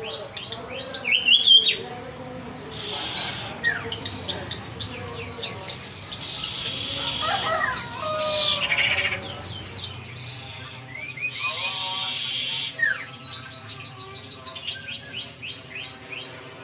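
Several small caged songbirds chirping and singing at once, with quick runs of repeated high notes.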